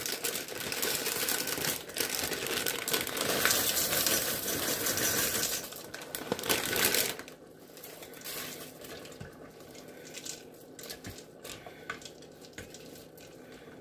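Plastic bag of noodles crinkling and rustling as noodles are shaken out of it into the pot, for about seven seconds. Then it goes much quieter, with a few faint clicks.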